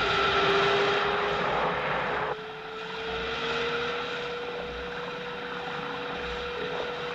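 Jet aircraft engine sound effect: a loud rush of engine noise that drops away sharply about two seconds in, leaving a steady whine that rises slightly in pitch and then holds.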